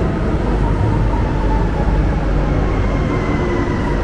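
Renfe Cercanías electric commuter train running in alongside an underground platform and braking to a stop: a steady rumble of wheels on rail, with a faint whine that falls slowly in pitch as it slows.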